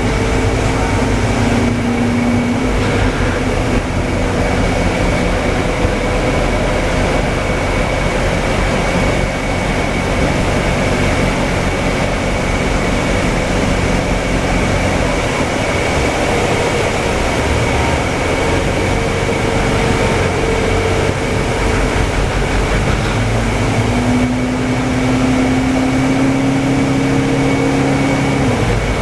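Interior of a Scania K320UA city bus under way: the diesel engine runs under a steady rumble of road and body noise. A thin high whine holds steady throughout, and the engine note climbs slowly for a few seconds near the end before dropping away.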